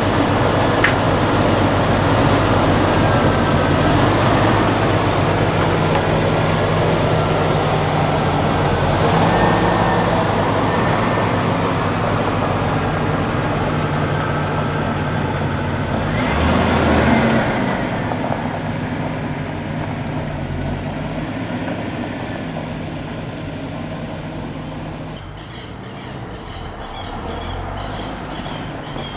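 Motor vehicle running, a steady mix of engine hum and road noise; a louder whoosh rises and falls about two-thirds of the way through, and the sound drops away and grows quieter near the end.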